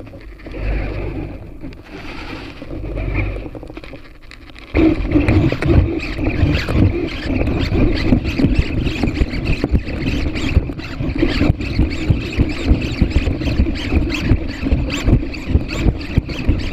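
A low, pulsing rumble, then just under five seconds in a PhantomX hexapod robot's servos start up suddenly: a steady whirring with rapid ticking as its legs move.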